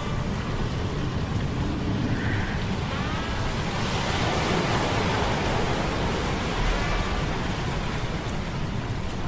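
Sea-storm ambience of rain, wind and surf over a low mechanical hum of metal gears, steady and dense, swelling to a surge about four to six seconds in. A few short, faint pitched cries come through twice.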